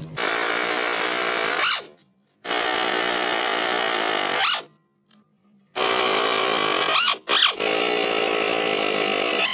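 A power tool running in three bursts of about two to four seconds each, with a whine that sweeps in pitch as each burst stops.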